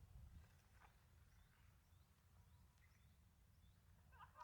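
Near silence: faint outdoor ambience with a low rumble and a few faint, scattered bird chirps, and a brief brighter call near the end.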